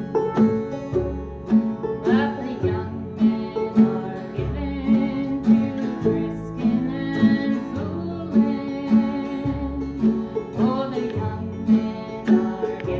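Acoustic string band playing in a country-folk style: plucked guitar over a steady bass line, with a melody and voice-like lines gliding above.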